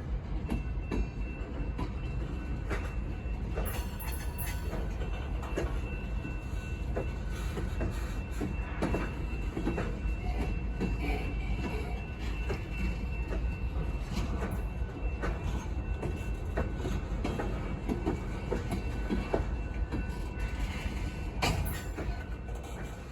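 Freight train cars rolling past, with a steady rumble and irregular clicking and clanking of wheels over the rails. A faint high steady wheel squeal runs through the first part and fades around the middle.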